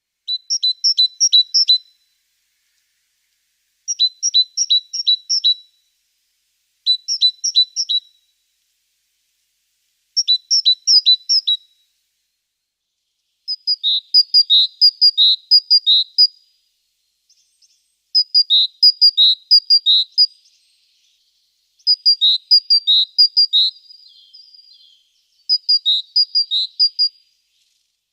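A small songbird singing in short phrases of quickly repeated high notes. There are eight phrases with pauses between them, and the note pattern changes about halfway through.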